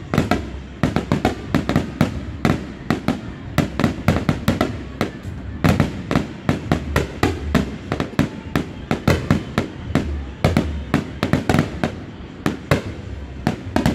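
Aerial firework shells bursting in quick succession, several sharp bangs a second over a steady low rumble.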